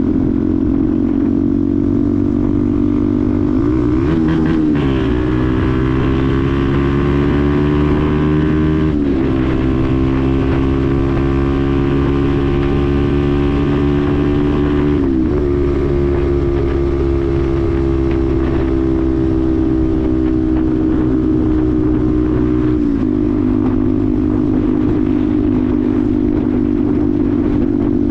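Benelli TNT 125's single-cylinder 125cc four-stroke engine running under way on the road. Its pitch dips sharply and recovers about four times, as with gear changes, and drifts gently between them.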